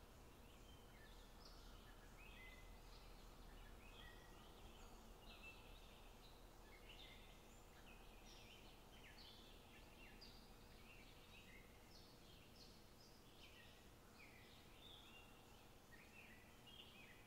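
Faint chirping of small birds, many short calls scattered throughout, over a low steady hum.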